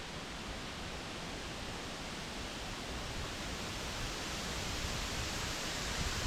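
Wind rushing steadily through trees, a constant hiss of rustling leaves.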